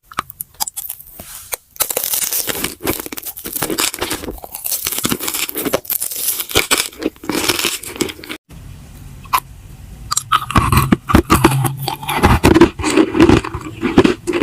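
Close-miked crunching and chewing of food. The crunching is dense for the first eight seconds; after a brief dropout the chewing has more low-pitched body.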